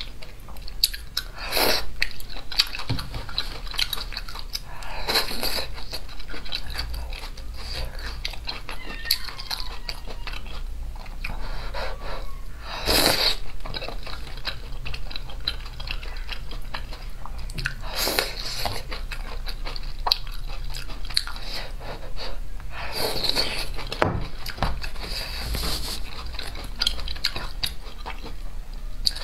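Close-miked chewing and biting of spicy hot-pot food, with crunching and small wet mouth clicks throughout, and a louder burst every few seconds.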